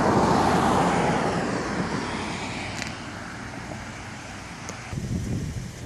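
A road vehicle going past, its noise fading away over the first few seconds.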